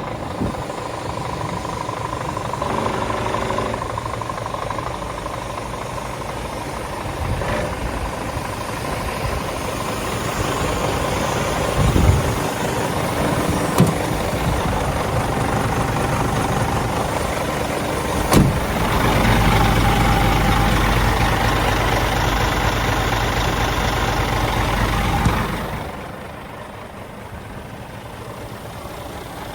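Scania G410 truck's six-cylinder diesel engine idling steadily, with a few sharp knocks about 12, 14 and 18 seconds in. Then for about seven seconds it runs louder with a deeper rumble, before dropping back to a quieter level.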